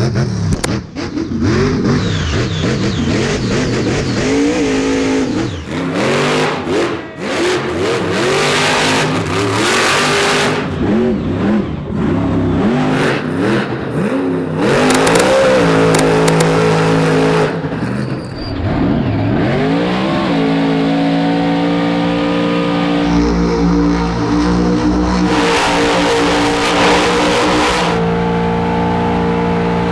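Monster truck's supercharged V8 revving hard, its pitch sweeping up and down again and again, then held at a steady high pitch for about the last ten seconds.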